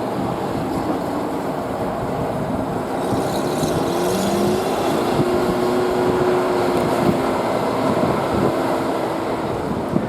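FH70 155 mm howitzer driving under its own power on its Subaru horizontally opposed auxiliary engine, running steadily, with a faint whine in the middle.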